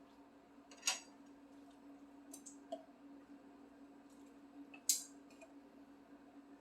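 Close-miked eating sounds: a few sharp clicks of chewing and mouth noise, the two loudest about a second in and just before five seconds, over a steady low hum from the induction cooktop and range hood fan.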